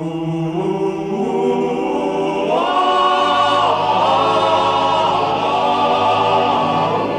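Opening of a 1950s film-musical soundtrack: a wordless choir with orchestra holding long sustained chords that climb in pitch about two and a half seconds in.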